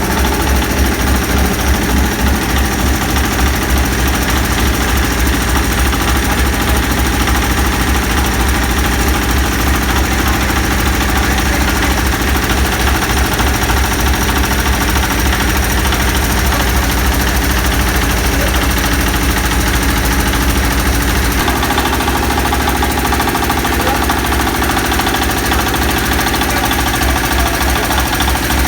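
Hammer mill grinder driven by a diesel engine, running steadily with a fast, even knocking pulse. The low part of the sound changes about 21 seconds in.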